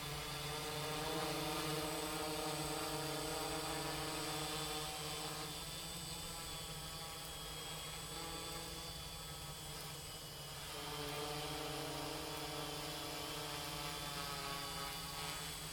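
Quadcopter's electric motors and propellers buzzing as it hovers in GPS position hold. The pitch shifts up and down a few times as the motors correct.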